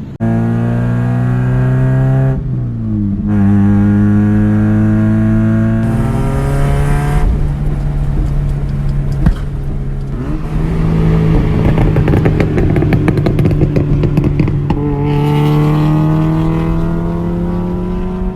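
1991 Mazda Miata's 1.6-litre four-cylinder engine through a straight-pipe exhaust, pulling hard through the gears. The exhaust note climbs steadily in pitch and drops at each of three upshifts, with a short break in power at the first shift.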